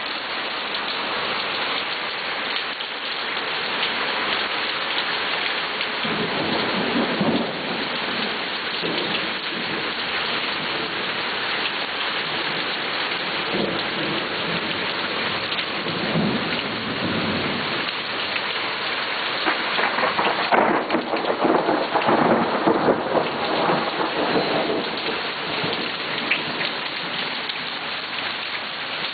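Rain falling steadily through a thunderstorm, with thunder rumbling several times under it. The loudest and longest roll comes a little past two-thirds of the way through.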